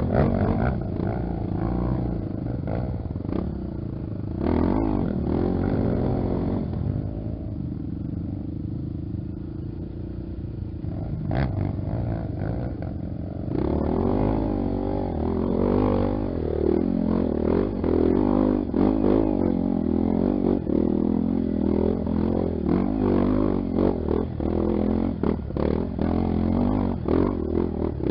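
Dirt bike engine running under way, its pitch rising and falling with the throttle; steadier at first, then busier, uneven revving from about halfway, with scattered knocks.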